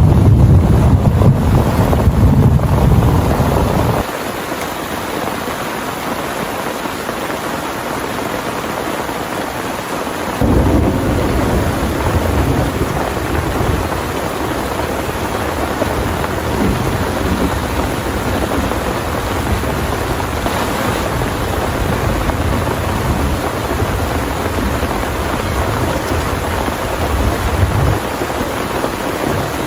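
Heavy rain pouring steadily, with a deep low rumble under it that cuts out abruptly about four seconds in and comes back about ten seconds in.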